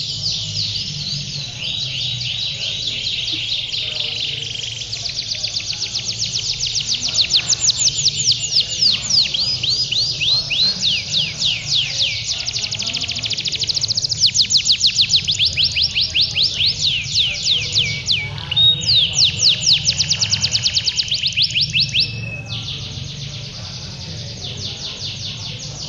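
Domestic canaries singing long, unbroken rolls of rapid repeated chirping notes, as contest canaries are trained to do. The trills get loudest and fastest through the middle, with a brief break a little after eighteen seconds, over a low steady background hum.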